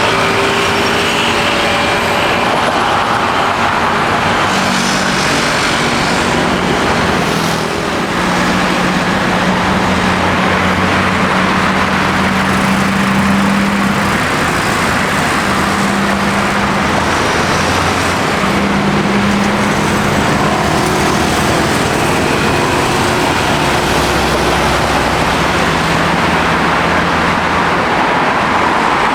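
Steady road traffic: passing car and truck engines with tyre noise, their engine hum rising and fading as vehicles go by.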